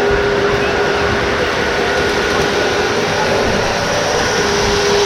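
Lionel O-scale model train with a Santa Fe locomotive running steadily around the track, its electric motor giving a steady hum over the rolling noise of the wheels.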